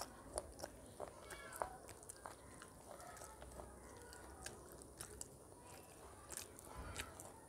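Faint eating sounds: rice and chicken curry eaten by hand, chewed with many short wet clicks and smacks of the mouth scattered throughout.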